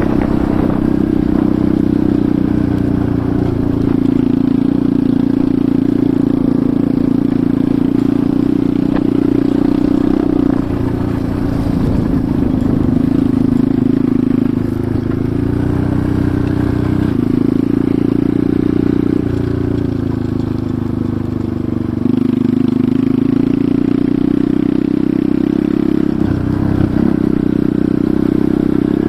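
Enduro motorcycle engine running while riding, its pitch rising and falling over and over as the throttle opens and closes.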